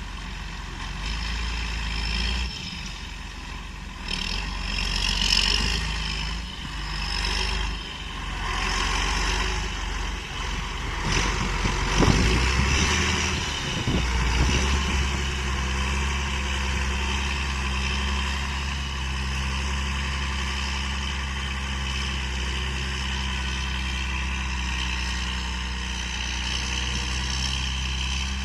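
John Deere 8420 tractor's six-cylinder diesel engine running. It is uneven during the first half, with a sharp knock about twelve seconds in, then settles into a steady, even sound.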